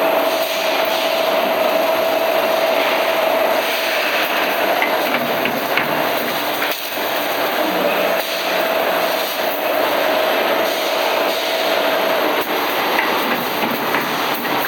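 Capillary tube cutting machine running steadily, with a whine that sounds for about four seconds, drops out, and comes back for another four seconds or so.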